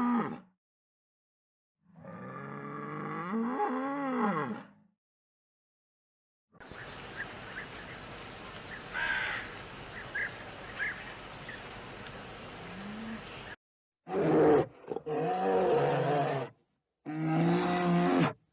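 A series of separate animal calls cut together. A drawn-out call of about three seconds rises and falls in pitch. Then comes outdoor background with small chirps, and near the end three loud, deep roaring calls in short blasts.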